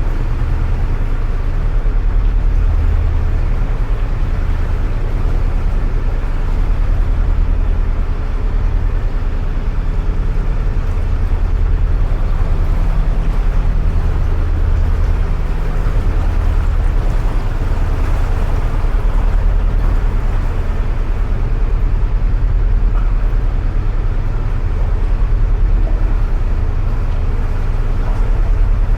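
A narrowboat's diesel engine runs steadily at cruising speed, with an even low throb, inside a long brick canal tunnel.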